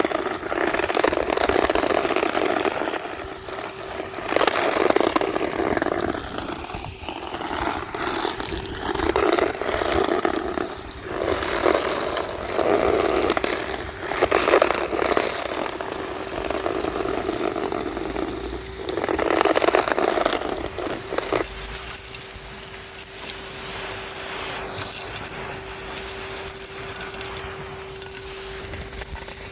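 Henry HVR200-22 tub vacuum cleaner running with a steady motor hum while its nozzle sucks up crunchy street debris in repeated surges of rattling and scraping. About two-thirds of the way through the debris noise stops and only the motor's steady whine carries on.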